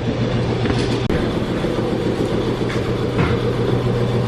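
Car engine running with a steady low drone and rumble, a few faint clicks over it, dipping briefly about three seconds in.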